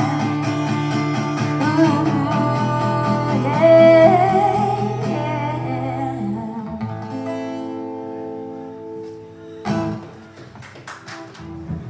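Live singing with acoustic guitar: a held vocal line with vibrato over strummed chords, then the final guitar notes ring on and fade away. A few short strums or knocks come near the end.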